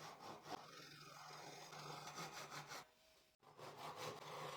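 Faint strokes of a Japanese pull saw cutting off the excess of a glued-in hardwood strip, a quick, even series of rasping strokes with a brief pause about three seconds in.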